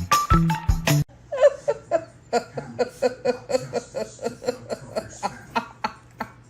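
A person laughing in a long run of short, quick bursts, about four or five a second, over a low steady hum. The laughter starts about a second in, after a snatch of music.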